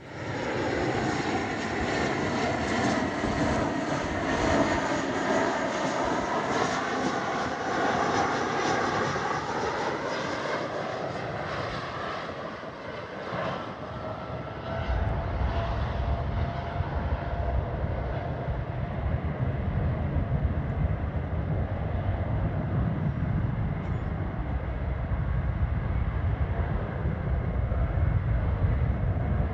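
Jet airliner's engines passing close by, the noise sweeping down in pitch as it goes past. About halfway through, a deep low rumble takes over and runs on steadily.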